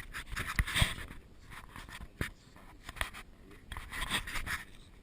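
Scratchy rubbing and sharp clicks in short irregular bursts, a few of them, loudest about a second in and again near the four-second mark.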